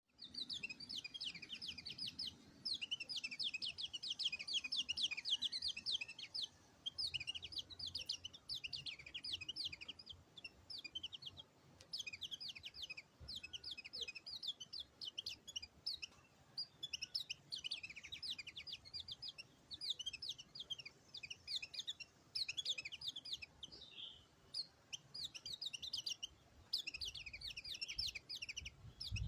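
White-eye (pleci) singing: long runs of fast, high chirping notes, broken by brief pauses every few seconds.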